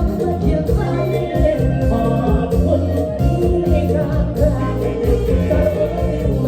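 Live Isan mor lam band playing a toei song: a prominent electric bass line over a steady beat, with singing.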